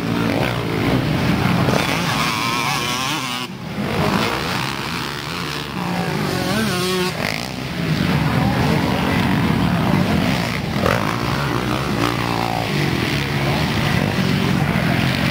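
Dirt bike engines on a motocross track, revving up and falling back over and over as the riders work the throttle through the course, the pitch rising and dropping repeatedly.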